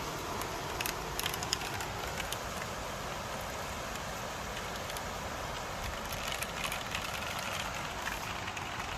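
Steady rain falling, a constant hiss with scattered sharp drop ticks, most of them in the first couple of seconds.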